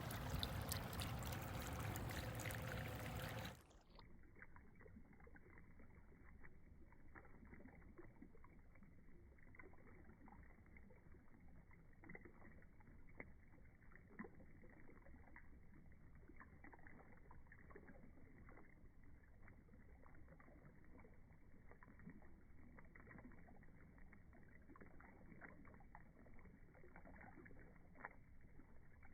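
Beehive fountain water splashing for about three and a half seconds, then cutting off abruptly into a faint, muffled low rumble with scattered small ticks: the fountain's water slowed down.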